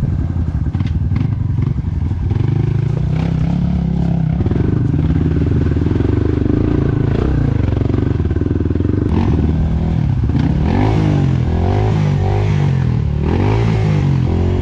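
Dirt bike engine running on a trail ride, with some knocks and clatter. From about ten seconds in it revs up and down over and over.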